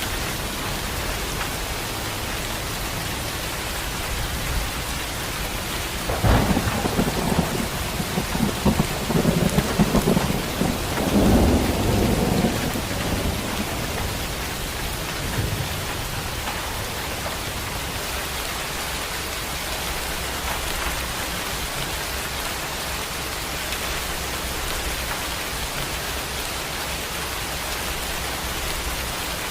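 Steady heavy rain pouring, with a crack of thunder about six seconds in that rolls and rumbles for several seconds before fading back to the rain.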